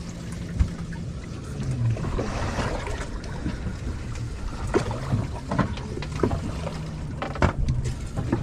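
Steady low hum of a fishing boat's engine, with scattered knocks and clicks on board.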